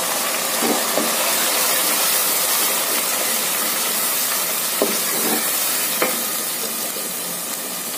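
Wet onion and spice paste sizzling steadily in hot oil in a nonstick pot, stirred with a wooden spatula that knocks against the pan a few times. The sizzle eases a little near the end.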